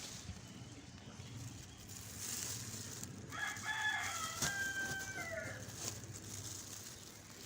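A rooster crowing once: a single drawn-out call of about two seconds, starting about three seconds in and dropping in pitch at its end, with a sharp click partway through.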